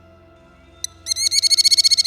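Merlin calling: a single sharp note, then a rapid chatter of shrill, rising-and-falling notes starting about a second in, over faint background music.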